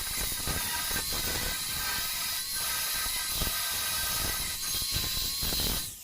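Electric arc welding: a steady crackling hiss from the arc, with a steady high-pitched whine over it. It cuts off near the end as the arc is broken.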